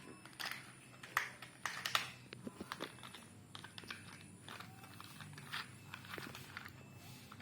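Plastic toy trucks being handled and moved about, making irregular light clicks and knocks, thickest in the first few seconds and sparser after.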